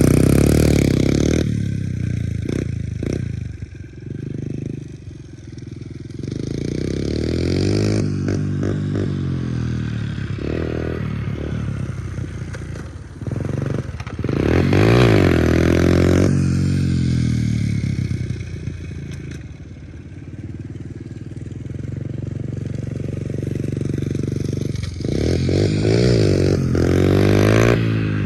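Pit bike's single-cylinder engine revving hard and dropping back, three main surges with lower running in between, as the rider tries wheelies on wet, slippery grass where the rear tyre won't grip.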